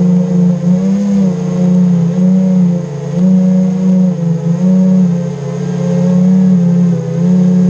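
FPV racing quadcopter's brushless motors whining steadily as heard from the onboard action camera, the pitch wavering up and down with throttle changes.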